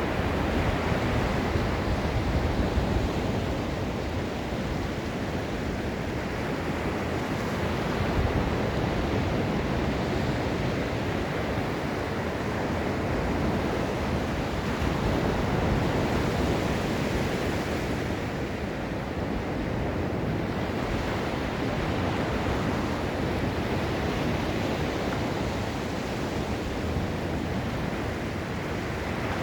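Ocean waves breaking and washing up a beach: a steady rush of surf that swells and eases gently every few seconds.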